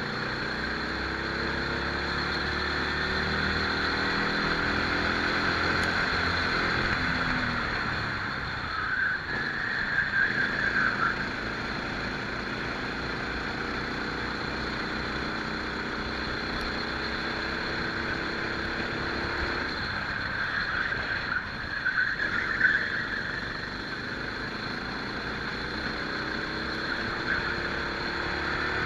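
Rental kart engine heard onboard during a race, revving up and easing off repeatedly as the kart accelerates and slows through the lap, over a steady rush of noise. Two brief louder noisy patches come about ten seconds in and again past the twenty-second mark.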